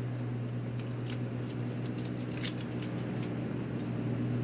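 A steady low drone with a few fainter tones above it and scattered faint clicks and ticks, cutting off abruptly at the end.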